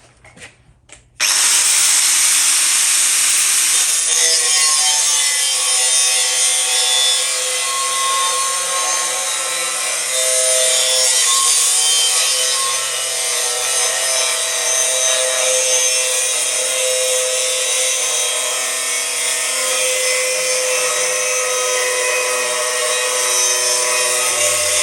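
Angle grinder with a cut-off disc starting up about a second in and cutting through 3 mm steel plate, its whine shifting in pitch as the disc bites.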